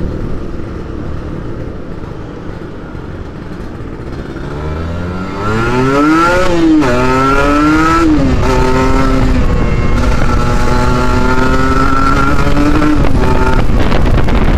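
Kawasaki Ninja 150RR's two-stroke single-cylinder engine, heard from the rider's seat. It runs low and quiet at first, then about a third of the way in the bike accelerates: the pitch climbs and drops at two quick upshifts, then holds a steady, slowly rising note before easing off near the end.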